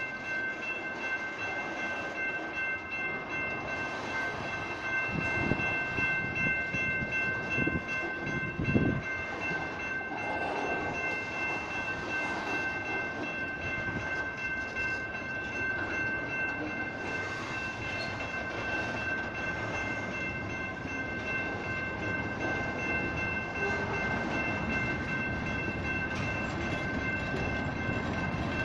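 Railroad crossing's General Signal electronic bells ringing steadily, heard as a constant high multi-tone ring, while a BNSF locomotive rumbles slowly over the crossing. A few low thuds come in the first third.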